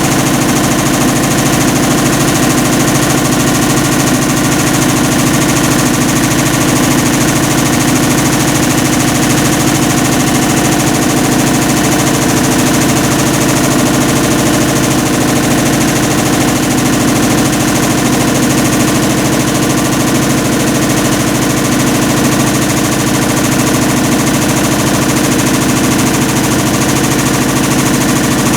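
Hitachi BeatWash BW-D8KV washing machine running with a loud, steady, rapid grinding rattle, a roar from a failed clutch.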